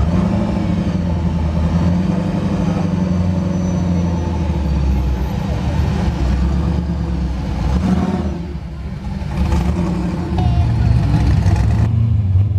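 Car engine running with a loud, deep rumble, its pitch stepping up a little about ten seconds in.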